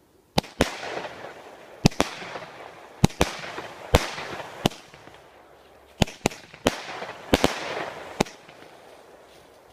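A multi-shot firework cake (a 23-shot barrage) firing: about fourteen sharp bangs at uneven gaps, often in quick pairs, each followed by a fading fizz.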